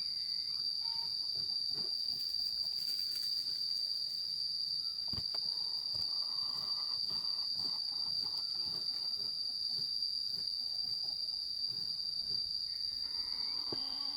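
Insects droning in one continuous, steady high-pitched tone, with a few faint knocks under it.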